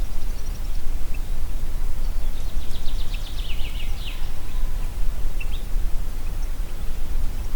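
Wind blowing through a forest, a steady low rush. Over it a bird sings a fast series of high notes that falls in pitch near the middle, with a few short chirps scattered around.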